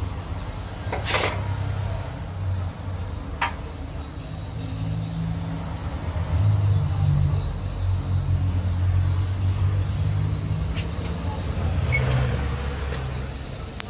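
A motor vehicle engine running steadily, its low hum swelling from about six seconds in. A few sharp metallic clicks come over it, the clearest about a second in.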